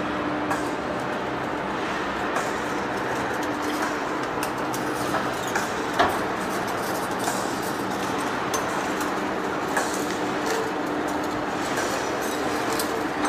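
Steady mechanical noise with a faint low hum, broken by scattered sharp clicks and knocks, the loudest about six seconds in.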